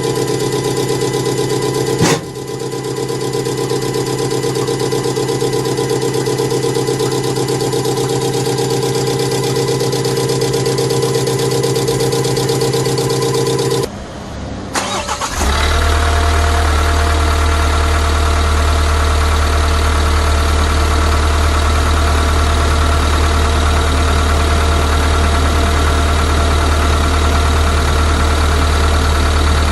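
Kia Bongo 3 diesel engine running with a steady droning note, with a sharp click about two seconds in. About fourteen seconds in the sound drops briefly, then comes back as a deeper, steady idle.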